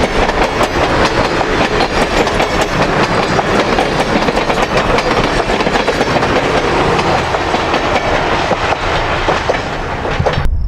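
A steam-hauled train with 2-8-2 locomotive No. 105 rolling past. Its steel wheels clack rapidly over the rail joints under a steady, loud rush of noise, which cuts off abruptly near the end.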